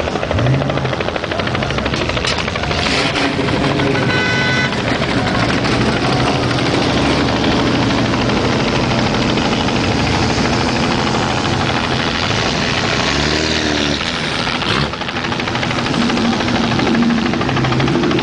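Helicopter overhead, its rotor beating steadily over a loud wash of noise. A car engine revs up and down briefly about thirteen seconds in, and a short high-pitched tone sounds about four seconds in.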